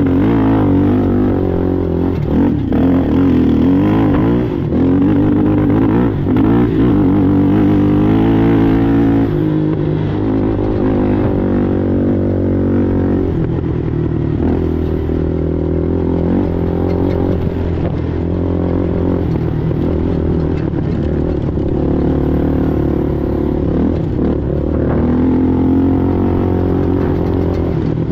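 Racing ATV engine running hard, its revs rising and falling over the first ten seconds or so, then holding steadier, with occasional knocks and rattles.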